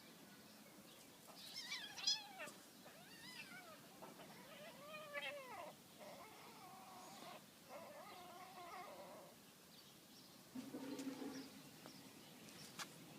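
Cat meowing: a series of faint, wavering meows one after another, then a lower, shorter call near the end.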